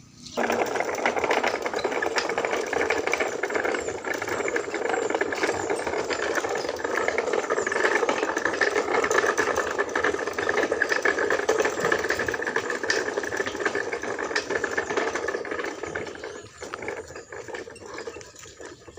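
A motor starts abruptly and runs steadily with a rattle for about sixteen seconds, then dies away near the end.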